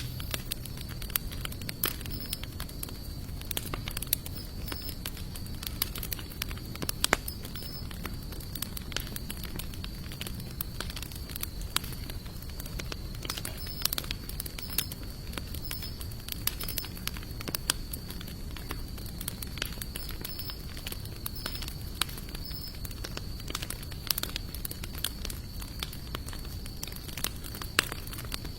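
Wood fire of sawtooth oak and mixed hardwood logs crackling, with frequent sharp pops over a steady low rumble of the flames. A steady high-pitched tone runs behind it.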